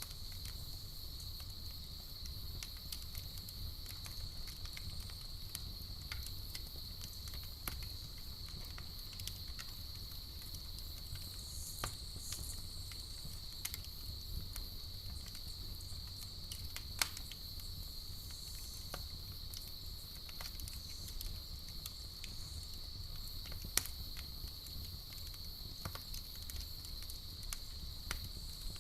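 Campfire crackling with scattered small pops and two sharper pops, one just past the middle and one about two-thirds through. Underneath are a steady high insect chirring and a low rumble.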